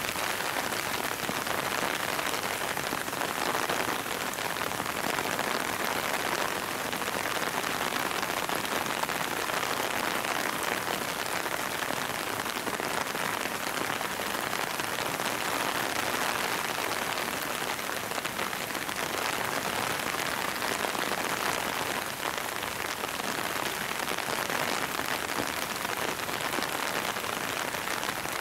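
Rain falling steadily, an even hiss with no single sound standing out.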